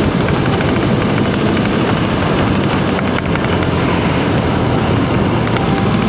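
Small-capacity motorcycle engine running steadily at road speed, mixed with heavy wind rush on the microphone.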